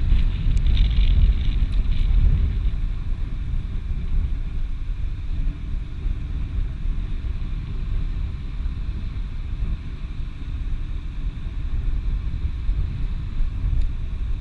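Wind buffeting the microphone on a slope, a steady low rumble.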